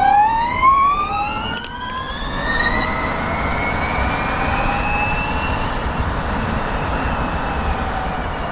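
MG5 electric car's drive motor whining under hard acceleration from a standstill, recorded in the motor bay: several high whine tones climb steadily in pitch and level off as speed builds, over a rushing road noise.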